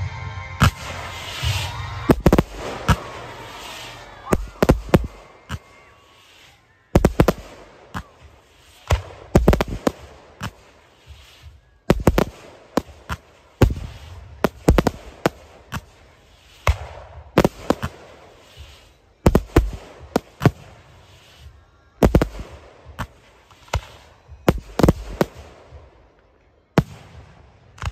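Aerial fireworks going off in rapid volleys: clusters of sharp bangs every second or two, with brief lulls between them.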